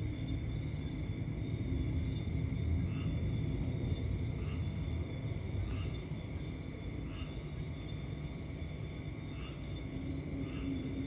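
Steady low rumble of distant jet aircraft, swelling slightly a couple of seconds in, with a short chirp repeating about every second and a half over a faint high drone.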